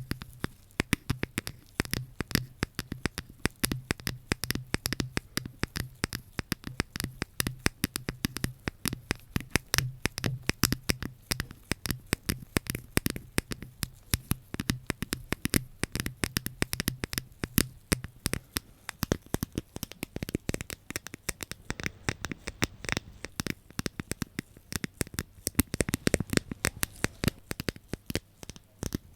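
ASMR trigger sounds: fast, crisp tapping and scratching, many sharp clicks a second, over a low hum that stops about two-thirds of the way through.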